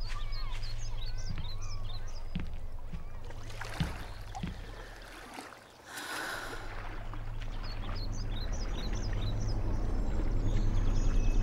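Small birds chirping over a steady low hum, with a few short knocks around the middle.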